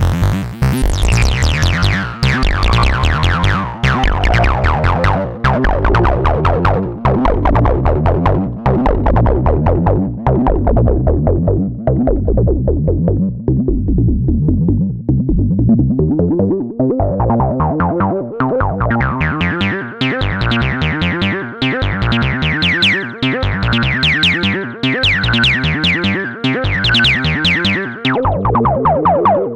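Moog Subsequent 37 analog synthesizer playing a sequenced acid bassline of rapid, short notes with reverb. Its filter closes over the first half so the notes turn dull, then opens again so they grow brighter and buzzier toward the end.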